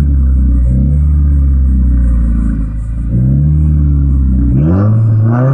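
2015 Subaru WRX's turbocharged 2.0-litre flat-four being revved in repeated blips, the pitch rising and falling with each one. The last blip, near the end, climbs higher than the others.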